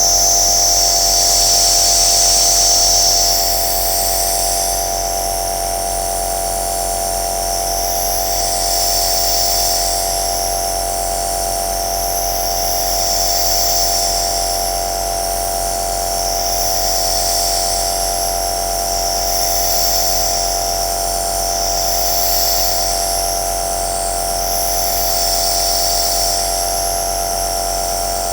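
Compressor nebulizer (aerosol machine) running steadily: a constant motor hum under a high hiss of air and mist that swells and fades every few seconds.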